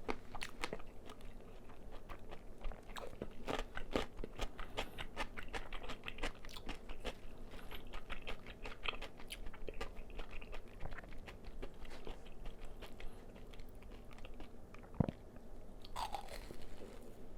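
Close-miked chewing of crispy fried chicken: a dense run of crisp crunches as the fried coating breaks between the teeth, thinning out near the end.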